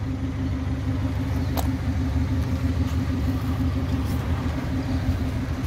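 Daihatsu Zebra pickup's engine idling steadily, a constant low rumble with a steady hum. A single light click about a second and a half in.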